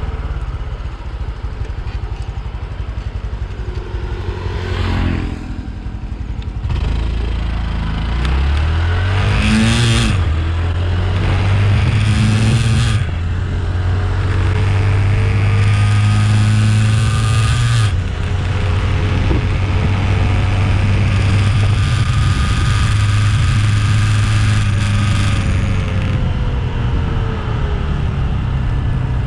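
Honda CT125's single-cylinder engine accelerating hard on stock gearing, its pitch climbing and dropping back at each upshift, then holding a steadier speed, with wind rushing over the microphone.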